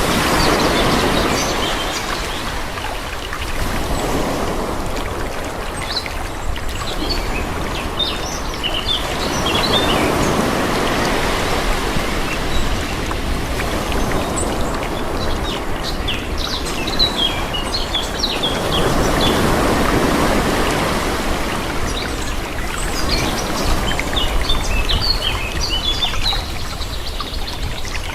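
Calm sea waves washing in and receding, swelling about every ten seconds, with small birds chirping now and then over the wash.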